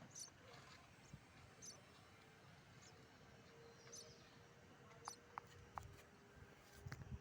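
Faint, high-pitched cheeps of nestling birds, short and repeated about once a second, with a few soft clicks near the end.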